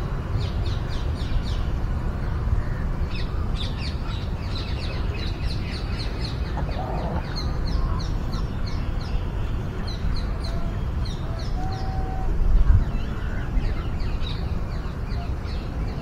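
Small birds chirping in quick, repeated high notes over a steady low rumble, with one louder bump about three-quarters of the way through.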